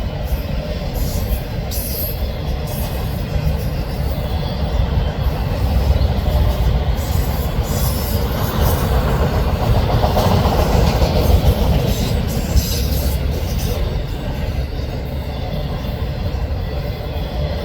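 Freight train of auto rack cars rolling past: a steady rumble of steel wheels on the rails with scattered sharp clicks, growing a little louder in the middle.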